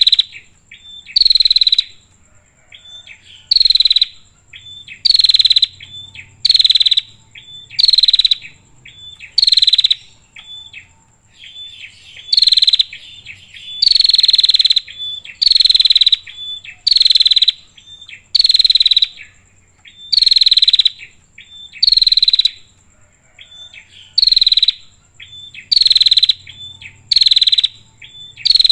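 Female prenjak (prinia) calling: a loud, sharp, high call repeated about every second and a half, with softer short chips between and two brief pauses. A faint steady high-pitched whine runs beneath.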